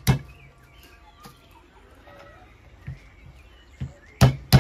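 Hammer cracking walnuts in the shell on a wooden stump: one sharp knock at the start, then after a pause a few more knocks, the loudest two close together near the end. Birds chirp faintly in the pause.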